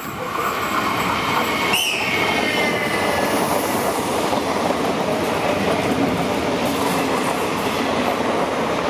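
Electric commuter train running past close by on the near track, a steady loud rumble of wheels on rail. A brief high wheel squeal rises and fades about two seconds in.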